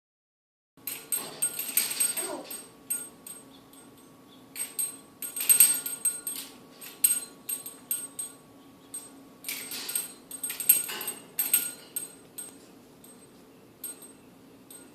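African grey parrot batting at a toy: irregular bursts of rattling, jingling knocks in clusters, with a short call that falls in pitch about two seconds in.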